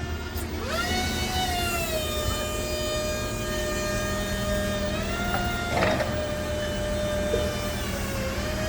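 Electric forklift's hydraulic pump motor whining as the mast is raised to full height. The whine spins up about a second in, then holds steady, with a short knock near six seconds in. The lift runs without stuttering or hesitating, which shows the hydraulics are in order.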